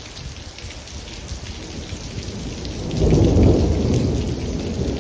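Heavy rain falling steadily, with a thunderclap rumbling in about three seconds in and slowly dying away.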